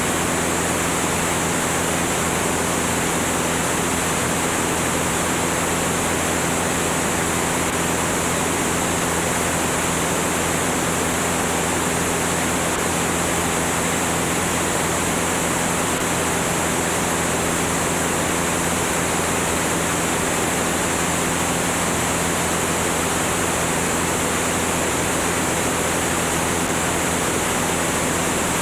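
Cessna 205 in flight: steady rushing wind noise over the microphone with the low drone of the engine and propeller underneath, unchanging.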